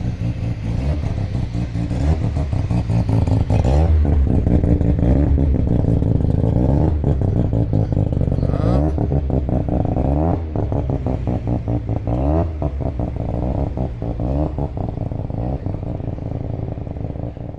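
A car engine revving hard again and again, the pitch climbing and dropping back every couple of seconds, with sharp pops and clatter between the revs.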